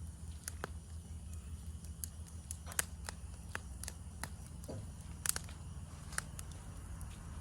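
Campfire of burning wood crackling: irregular sharp pops and snaps, a couple of them louder, over a steady low rumble.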